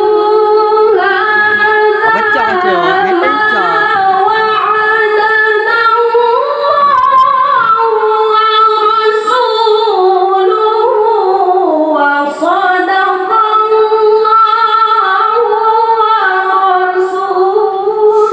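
A child's voice reciting the Quran in melodic tilawah style, holding one long, unaccompanied ornamented phrase. The pitch winds up and down through the phrase, sinks low with a brief break about twelve seconds in, then climbs back.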